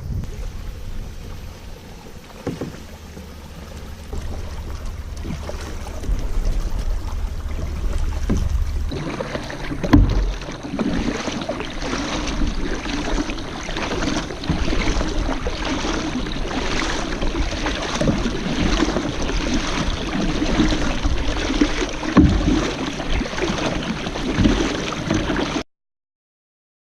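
Kayak paddle strokes splashing in the water at a steady rhythm, with wind rumbling on the microphone in the first few seconds. The sound cuts off abruptly near the end.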